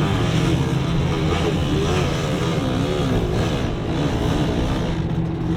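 Off-road 4x4 engine running under load, its revs rising and falling again and again.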